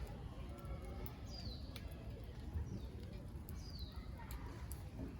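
Wood fire crackling in a small fire pit, sharp pops scattered every half second or so over a low steady rumble. A bird gives short falling high calls several times.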